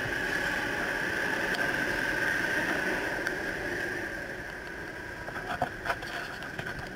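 Sydney Trains double-deck electric train running past close alongside, heard from inside another train in an underground station, with a steady high-pitched whine over the rail noise. The noise eases off once the train's end goes by about four seconds in, and a few sharp clicks follow near the end.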